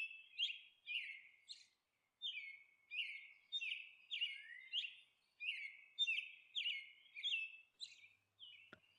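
A small bird chirping over and over: short, high chirps that slide downward, about two a second, faint.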